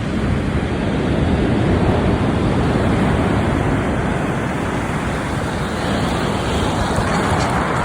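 Sea surf washing on the shore, with wind rumbling on the microphone; a wave swells louder near the end.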